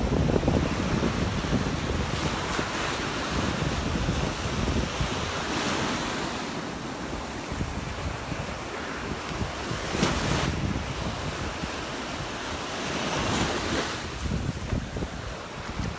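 Surf washing onto the beach, the hiss swelling every few seconds as waves break, with wind buffeting the microphone.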